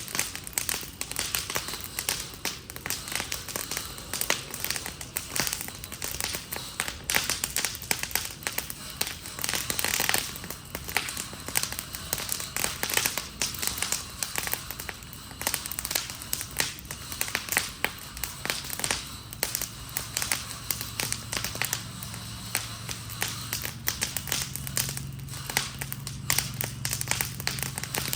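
A fire burning an Adirondack chair, crackling and popping in a dense, irregular stream of snaps. A low steady hum joins in about twenty seconds in.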